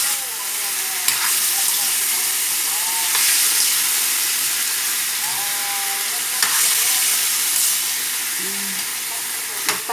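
Chicken pieces sizzling in hot oil in a wok over a gas flame, stirred with a spatula, with a few sharp clinks of the spatula against the pan.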